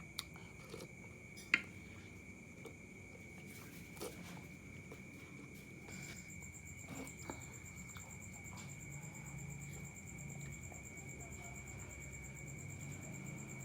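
Crickets trilling steadily in the background, with a second, higher trill joining about halfway through. A few soft clicks from eating sound over it, the sharpest about a second and a half in.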